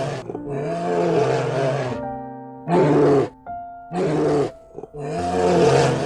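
A bear growls four times in a row: one long growl, then three shorter ones. Steady background music plays underneath.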